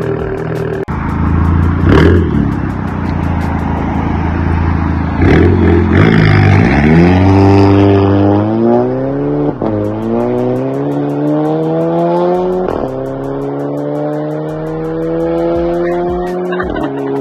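Straight-piped Audi TT Mk2 2.0 TFSI turbo four-cylinder accelerating hard, its loud exhaust note climbing in pitch and dropping sharply at each DSG upshift, three times in the second half.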